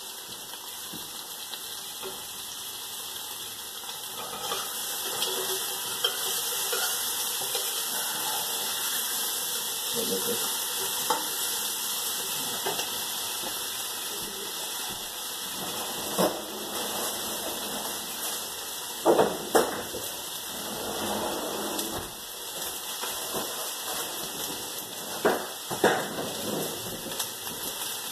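Onion frying in oil in a pot on the stove: a steady sizzle, with a few sharp knocks about two-thirds of the way in and again near the end.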